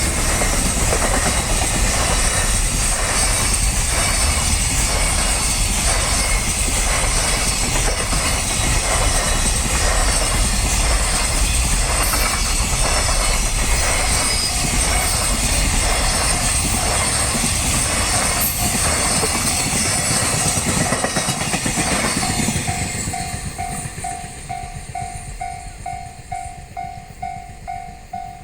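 A train passing over a Japanese level crossing, its wheels clacking over rail joints about once a second, with the crossing's electronic alarm bell ringing in a fast repeating ding. The train noise fades about 22 seconds in, leaving the crossing bell ringing clearly until it stops at the end.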